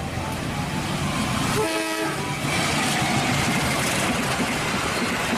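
Passenger train hauled by a KAI diesel locomotive approaching, with a steady rumble of engine and wheels on the track. A short horn blast sounds about one and a half seconds in.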